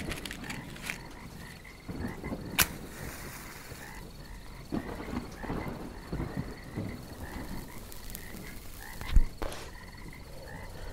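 Frogs croaking in a chorus of short calls repeating several times a second. Scattered soft knocks run underneath, with a sharp click about two and a half seconds in and a louder thump a little after nine seconds.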